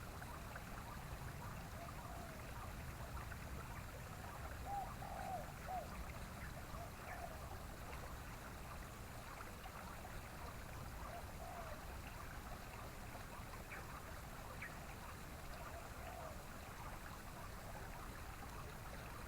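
Yellow-vented bulbul (trucukan) giving short, scattered call notes a few times over a steady background hiss that sounds like flowing water.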